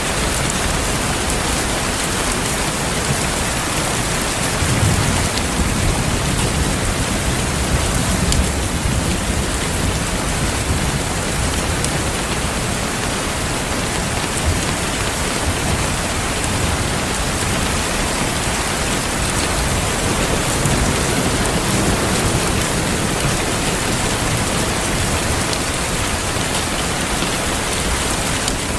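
Steady heavy rain falling on a surface, with low rolls of distant thunder swelling a few times, about five seconds in and again later.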